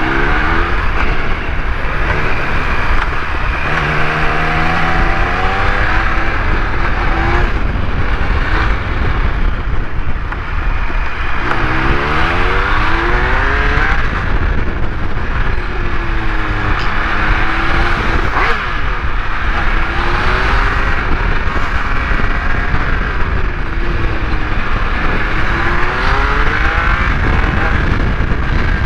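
Triumph Speed Triple 1200 RS inline-three engine heard from the saddle under hard riding. Its pitch climbs again and again through the gears and drops between pulls, over a loud steady rush of wind noise.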